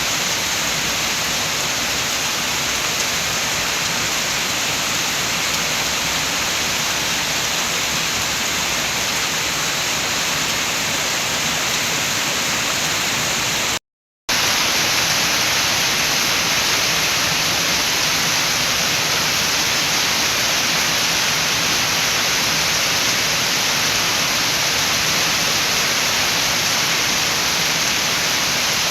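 Steady heavy rain with wind, a dense even hiss. It cuts out to silence for about half a second around the middle, then resumes.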